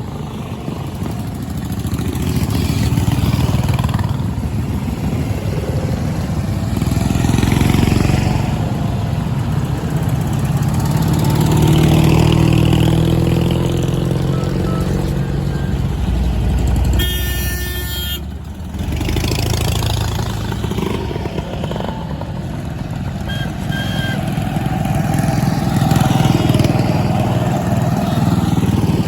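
Motorcycle engines running and riding past one after another, the sound swelling and fading and the pitch rising and falling as each one goes by.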